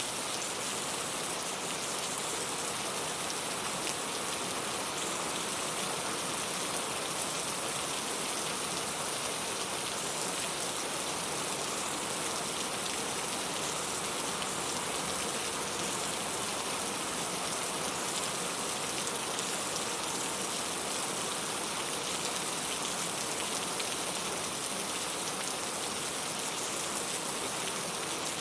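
Steady rain falling, an even hiss of drops pattering on a surface, with no change in strength.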